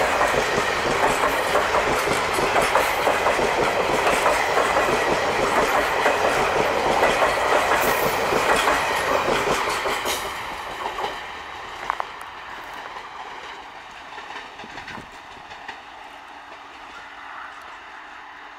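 Passenger coaches of an express train passing close by at speed, their wheels clattering steadily on the track. About ten seconds in, the last coach goes by and the clatter falls away to a fainter rumble as the train recedes.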